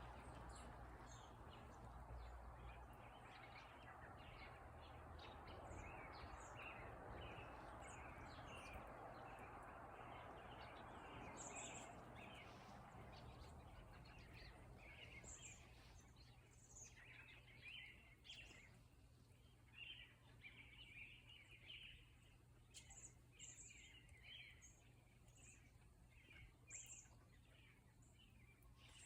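Faint chirping of small birds outdoors: many short, high chirps, coming more often in the second half. Under them lies a low even background noise that fades about halfway through.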